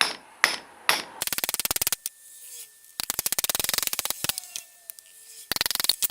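Hand tools working on a drum-brake wheel cylinder to get it apart: three sharp knocks in the first second, then three bursts of very rapid clicking.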